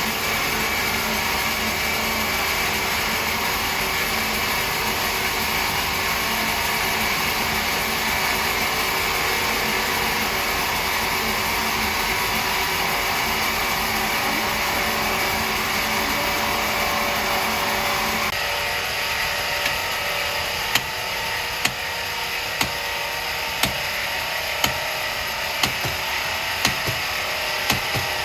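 Sawmill machinery running steadily. About eighteen seconds in, the sound changes and sharp knocks follow roughly once a second.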